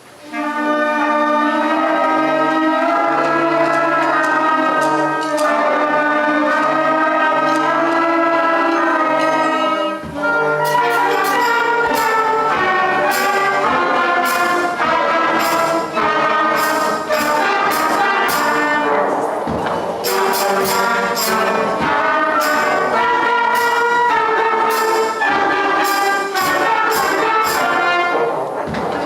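School concert band playing a piece, brass and winds in sustained chords that begin suddenly, with percussion strikes joining after a brief break about ten seconds in.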